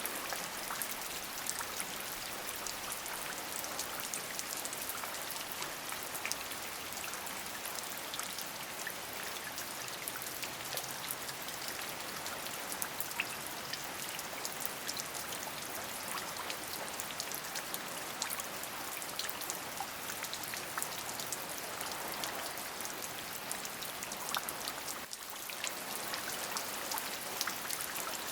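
Steady rain falling, an even hiss sprinkled with countless small drop ticks; it thins briefly for a moment about 25 seconds in.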